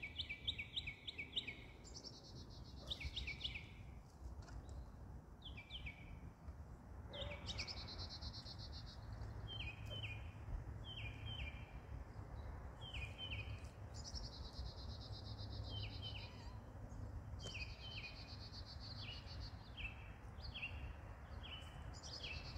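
Songbirds singing: runs of short falling chirps and stretches of a high, fast trill, repeating every second or two over a low steady rumble.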